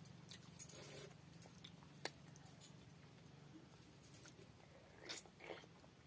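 Faint mouth sounds of eating by hand: scattered wet smacks and chewing clicks as rice and fish are eaten, with a small cluster about five seconds in, over a low steady hum.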